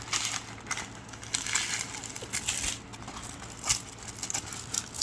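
Plastic packaging crinkling and rustling as it is handled, in irregular crackles with a sharper click about three and a half seconds in.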